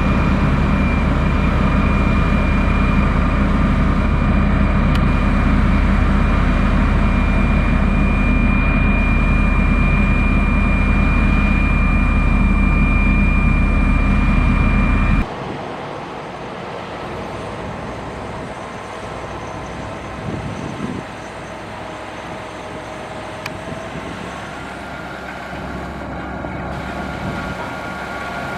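Motor grader's diesel engine running steadily under load, loud, with a steady high whine over it. About halfway through the sound drops suddenly to a quieter machine engine running steadily.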